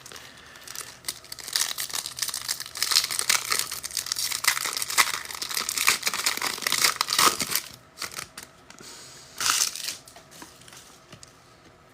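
Trading-card pack wrappers being torn open and crinkled by hand: dense crackling for several seconds, then a short burst of crinkling a little before the end.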